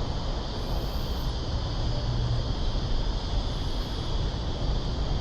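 Steady outdoor city ambience: a low rumble of traffic with a constant hiss and no distinct events.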